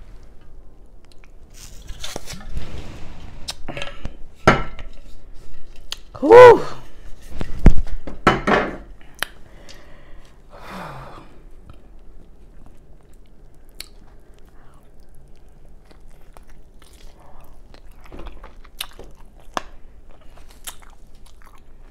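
Close-up chewing and crunching of air-fried chicken, with irregular wet mouth clicks. They are busiest in the first half, with a short vocal sound about six seconds in, and sparser and quieter after.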